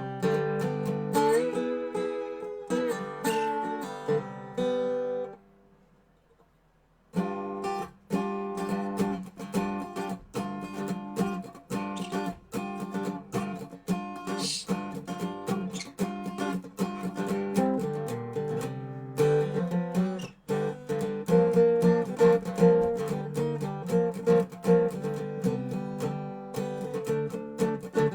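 Dobro resonator guitar played blues-style, with picked notes and strums. The playing stops for about two seconds around five seconds in, then starts again.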